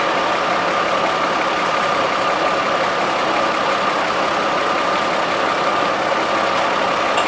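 Engine running steadily with a constant whine over dense noise.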